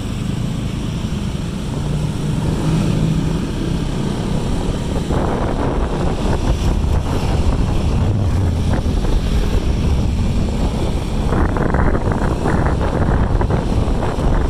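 Heavy wind buffeting the microphone over a low rumble, growing louder and rougher about five seconds in and again near the end.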